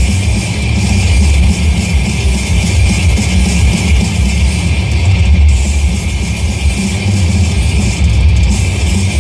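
Heavy rock music with electric guitar and drums, playing on a rock radio station.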